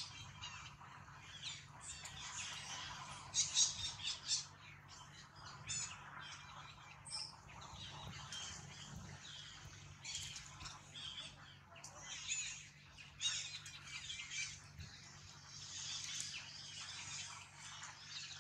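Wild birds chirping and calling: a fairly quiet, irregular run of short, high-pitched chirps.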